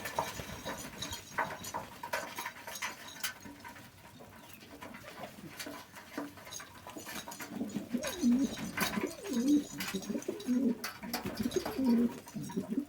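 Domestic pigeons cooing: low, rolling coos repeating about once a second through the second half. Scattered sharp clicks and taps run throughout.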